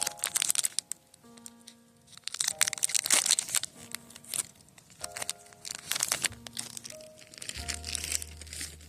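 Soft background music with sustained notes, over several bursts of crinkling and crackling from the foil wrapper of a Pokémon booster pack being handled and torn open.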